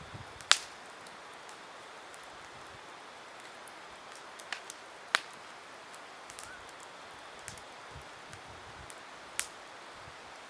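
Wood campfire crackling: a soft steady hiss with sharp pops, the loudest about half a second in, two around the middle and one near the end, and many faint ticks between.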